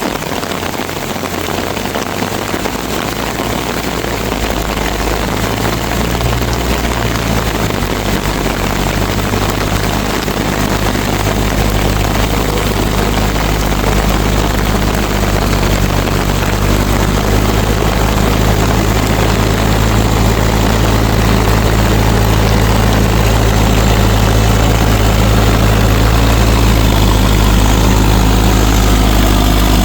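Mahindra tractor's diesel engine running steadily at an even speed, its low hum gradually growing louder.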